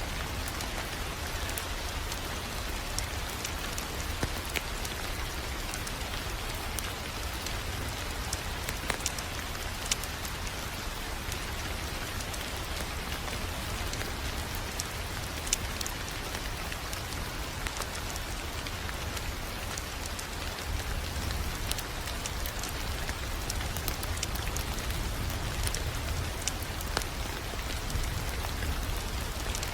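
Wood fire crackling steadily, with scattered sharp pops over a low, even rumble.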